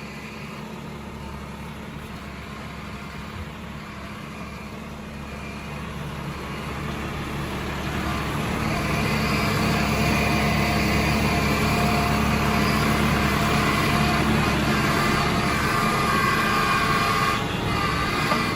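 Diesel tractor engine running steadily, growing louder between about six and ten seconds in and then holding.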